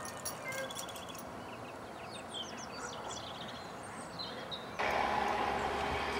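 Small birds chirping and trilling over a quiet outdoor background. About five seconds in, this cuts off suddenly to a louder, steady outdoor noise.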